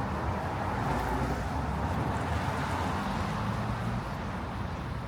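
Street traffic on a wet road: the steady hiss of tyres with a low engine hum underneath, easing off near the end.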